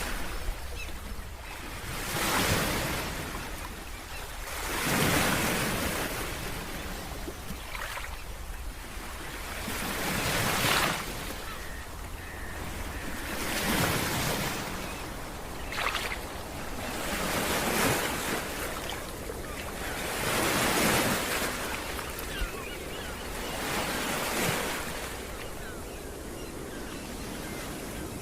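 Ocean waves breaking on a beach one after another, each swelling and washing out, about every three to four seconds.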